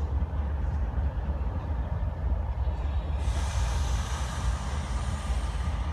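A train running past with a steady low rumble; a hiss starts suddenly about three seconds in and carries on.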